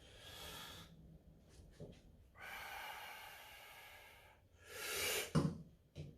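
A person breathing heavily, winded after a maximal grip lift: three long breaths, with a faint click between the first two and a short sharp sound after the last.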